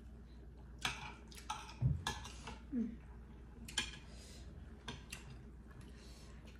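Close-up mouth sounds of eating: scattered short wet smacks and clicks of chewing, with a spoon touching a plate now and then and a low bump about two seconds in.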